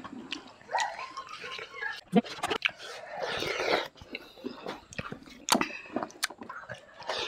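Close-up mukbang eating sounds of people chewing chicken and rice eaten by hand: wet chewing, lip smacks and irregular sharp clicks.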